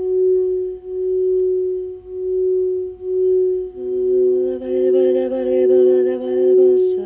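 Singing bowl ringing with a steady tone that swells and fades about once a second. A second, lower, slightly wavering tone joins about halfway through.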